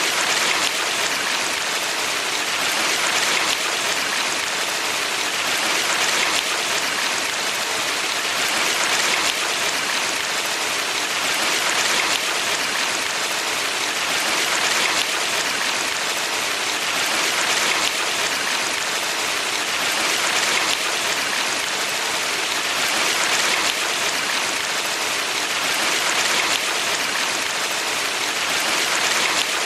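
Valley stream running: a steady rush and hiss of flowing water, swelling gently about every three seconds.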